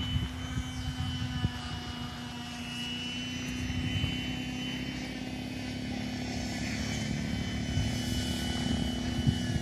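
Harbor Freight Predator 212cc single-cylinder four-stroke engine on a motorized bicycle, running at a steady high speed under way. Wind buffets the microphone.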